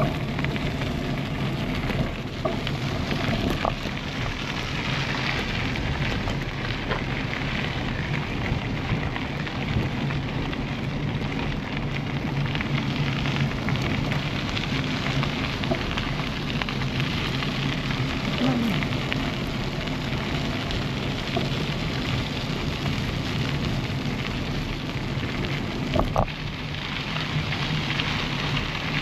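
Steady rushing and crackling of wind and rolling bicycle tyres picked up by a moving action camera during a ride, with a few faint clicks and a short knock near the end.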